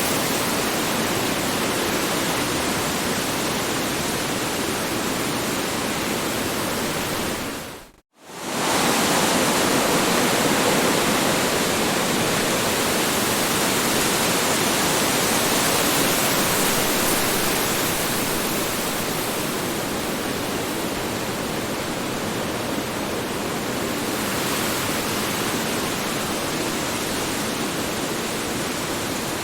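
Strong wind blowing steadily, a dense rushing noise. About eight seconds in it fades out to near silence for a moment and swells back, a seam in the looped recording.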